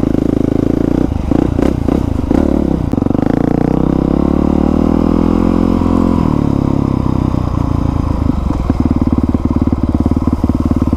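2020 Honda CRF450R dirt bike's single-cylinder four-stroke engine running through an aftermarket exhaust while being ridden. A few clattering knocks come early, and between about three and six seconds in, the engine pitch drops and then climbs again before it settles to a steady note.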